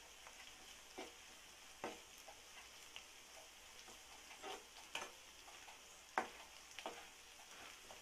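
Onion and spice masala frying in oil in a nonstick kadai, a faint steady sizzle, while a steel spoon stirs it, scraping and knocking against the pan in uneven strokes about once a second, one sharper knock a little after six seconds. The ginger-garlic paste has just gone in and is being mixed into the masala.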